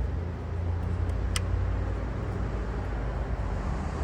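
Steady low mechanical hum, with a single sharp click about a second and a half in.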